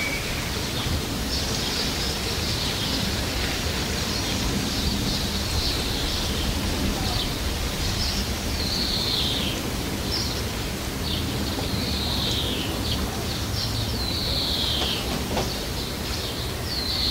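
Songbirds calling over and over: short high notes that sweep downward, about one a second, over a steady low rumble.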